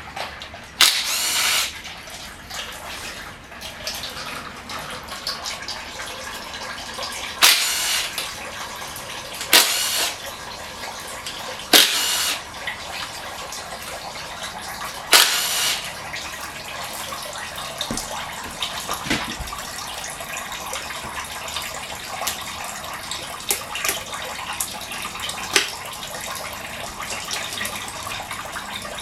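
A power tool runs in five short bursts, each under a second, over a steady hissing, trickling background with small clicks.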